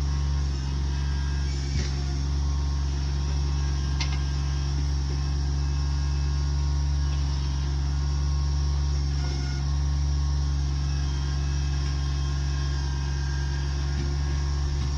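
An engine running steadily, a low even drone with faint knocks about two and four seconds in.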